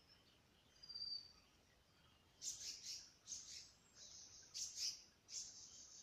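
Wild bird calling in woodland: a thin, high whistle about a second in, then a run of about six loud, sharp calls in quick groups over the second half.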